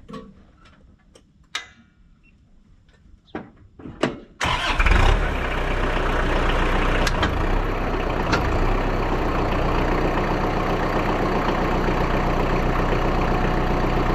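A few scattered clicks and knocks, then about four seconds in the Kubota M59 backhoe's diesel engine starts and settles into a steady idle.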